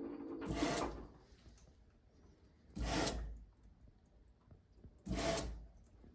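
LG front-loading washer beginning a load, its drum turning in short pulses: three brief swishing rumbles about two and a quarter seconds apart, with quiet between.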